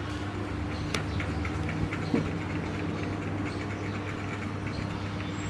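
Steady low mechanical hum with a constant tone, like a motor or engine running, with a few faint clicks over it.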